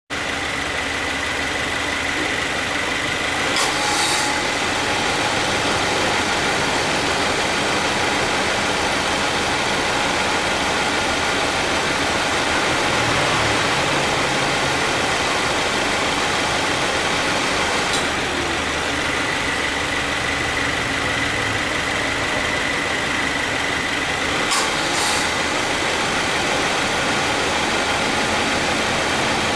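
Subaru Forester engine idling with the air conditioning on, the A/C compressor clutch clicking in and out a few times. The compressor makes an abnormal noise as it engages, which the mechanic puts down to light compressor wear.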